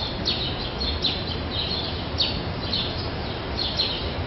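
Birds chirping: repeated short chirps that each fall in pitch, a few a second, over a steady background hiss.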